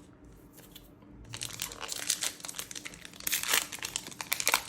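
Trading-card booster pack wrapper crinkling and tearing as the pack is opened, starting about a second in and going on as a dense crackle.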